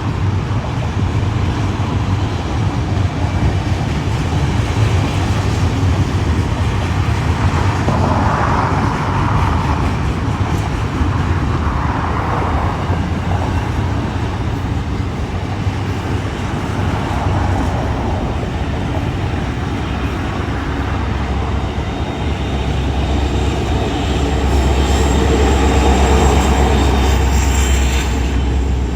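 Long intermodal freight train rolling past: a steady rumble of steel wheels on rail, with a thin high squeal coming in near the end.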